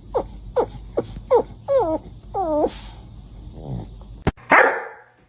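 A dog barking in a quick run of short yips, each sliding down in pitch, about two or three a second. Near the end comes a sharp click and then a short, loud, noisy burst.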